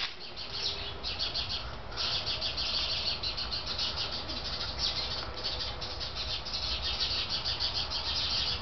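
Hummingbirds and another small bird species chirping rapidly and incessantly in a racket of alarm calls, mobbing a cat that has caught a fledgling. The chirping pauses briefly about two seconds in.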